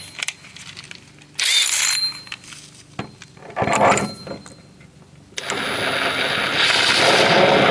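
A few short scraping handling noises, then a motor starts about five seconds in and keeps running steadily, growing louder about a second later.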